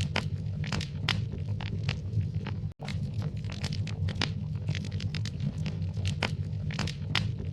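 Wood fire in a fireplace crackling: frequent sharp pops and snaps over a steady low rumble of the burning. The sound cuts out for an instant about three seconds in.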